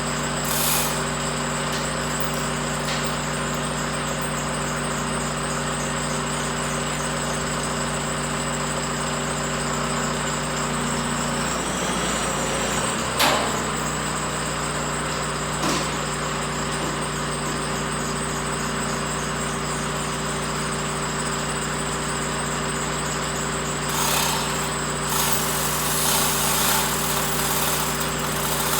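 An engine idling steadily, its pitch shifting briefly about twelve seconds in before settling again, with a couple of sharp clicks.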